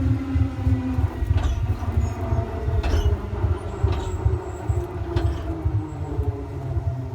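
Electric train running, with a low rumble under a motor whine that eases down in pitch in the first second. The wheels click over rail joints four times, about a second apart.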